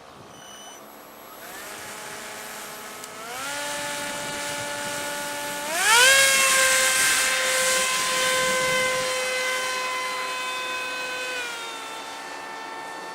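Electric motor and propeller of a foam RC model F-117 whining as the throttle is pushed up in three steps, the pitch jumping each time, then holding steady at high throttle with a rush of air at the loudest point. Near the end the throttle eases back slightly and the pitch drops.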